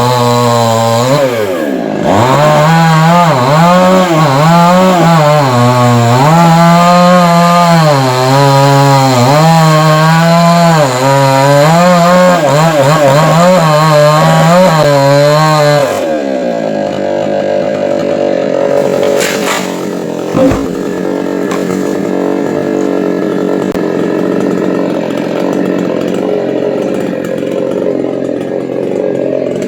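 Chainsaw engine cutting through a dried coconut trunk, its pitch repeatedly rising and dipping as it works the cut. About 16 seconds in it drops to a quieter, steadier running. A single sharp knock comes about 20 seconds in.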